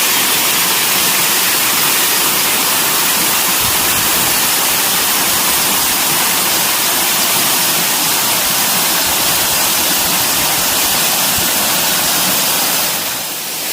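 Waterfall of about 15 m pouring steadily into a pool, a loud, even rush of water that eases slightly near the end.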